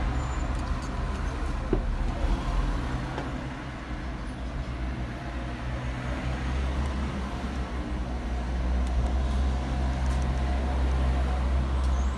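A steady low mechanical hum, like a running engine or passing traffic, with a few faint clicks.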